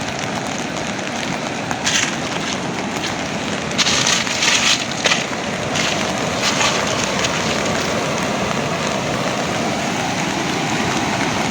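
Swollen river in flood after heavy rain: the water rushing steadily, with a few brief louder hissing surges about two seconds in and again around four to five seconds in.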